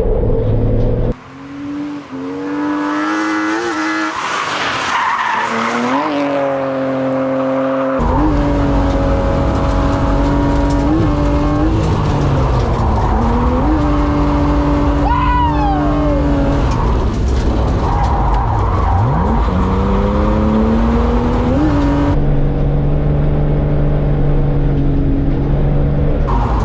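BMW E36's M52 straight-six drift engine revving hard, its pitch climbing and dropping again and again as the car slides, with tyres skidding and squealing. The sound changes abruptly about a second in and again at about eight seconds.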